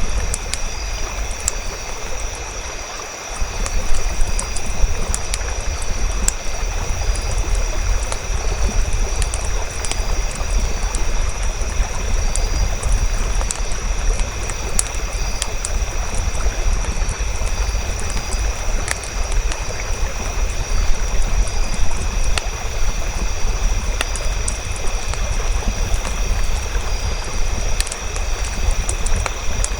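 Campfire crackling, with scattered sharp pops over a steady low rumble and hiss. The rumble drops out briefly about three seconds in.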